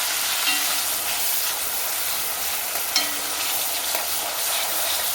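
Chopped seasoning (scallion, pepper, garlic) sizzling hard in hot oil in a pot as it is stirred, with a utensil clinking against the pot about half a second in and louder about three seconds in.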